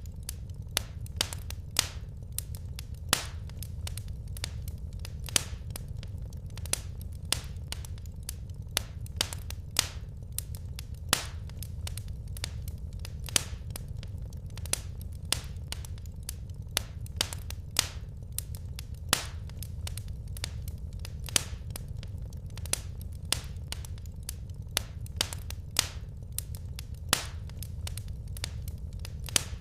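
Wood fire crackling in a fireplace: irregular sharp pops and snaps, several a second, some louder than the rest, over a steady low rumble.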